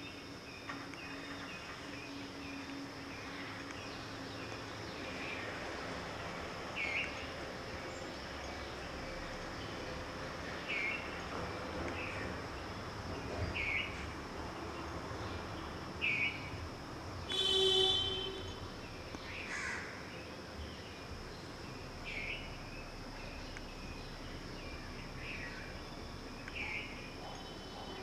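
Outdoor birdsong: short, falling calls repeated every couple of seconds over a steady high insect trill. About two-thirds of the way in, a brief honk is the loudest sound.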